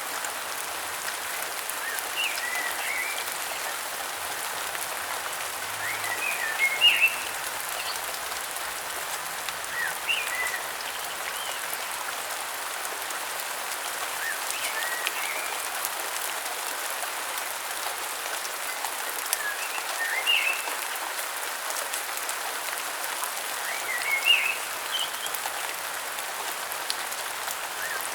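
Steady rain falling, with a bird calling in short clusters of chirps that come back about every four seconds.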